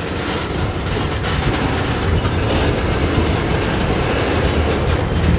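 Freight train moving during a switching move: a steady rumble of locomotive and wheels on the rails, with faint clicking, growing a little louder after about a second.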